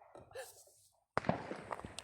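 Fireworks going off: a sudden bang a little over a second in, followed by several sharp cracks.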